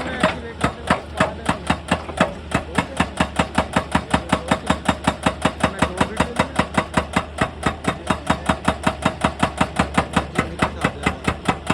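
Excavator's hydraulic breaker hammering on rock in a rapid, even rhythm of about six blows a second, with the machine's engine running underneath.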